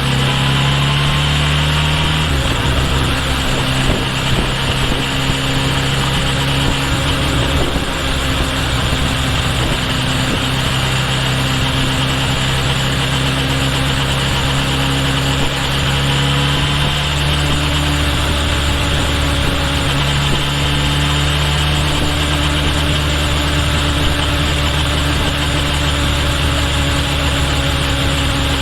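Kawasaki Ninja H2 SX's supercharged inline-four engine running steadily under way, heard from close behind at the rear of the bike. Its pitch drops about two seconds in and shifts a couple more times later, over constant wind and road rush.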